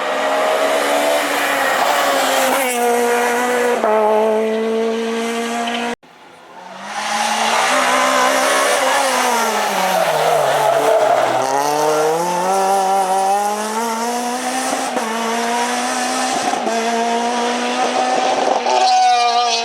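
Renault Clio R3 rally car's four-cylinder engine driven hard: near the start it revs high, and the pitch drops in steps as it changes up through the gears. After a cut, the engine pitch falls steadily as it slows for a corner, then rises again as it accelerates away.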